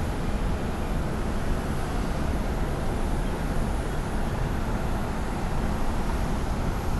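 Boeing 737-800 jet engines, CFM56-7B turbofans, during a landing: a steady rumble with a hiss over it.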